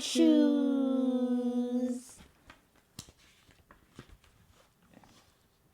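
A voice singing, holding the last word 'shoes' on one long steady note that stops about two seconds in; after that only a few faint clicks.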